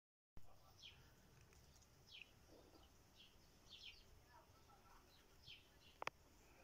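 Faint songbird chirps, short downward notes repeating every second or so, over quiet outdoor background noise. A single sharp click sounds about six seconds in.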